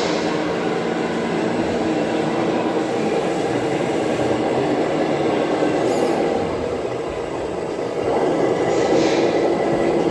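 1/14-scale RC trucks running with a steady mechanical whirr of their motors and gearboxes, growing a little louder about eight seconds in.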